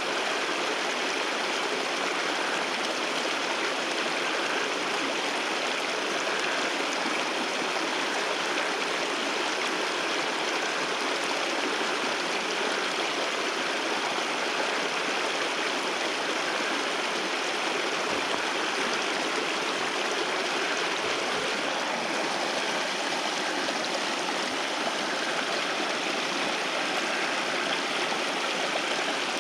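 Waterfall water rushing steadily, an even, unbroken wash of sound.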